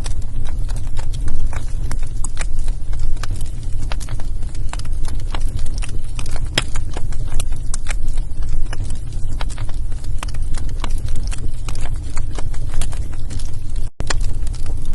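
Wood fire burning in a fireplace, crackling and popping in irregular sharp snaps over a steady low rumble. The sound cuts out for an instant near the end.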